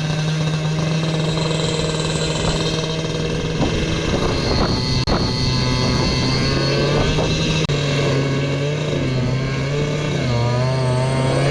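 Toro two-stroke snowblower engine running steadily under load, its pitch dipping and recovering a few times as it works through snow.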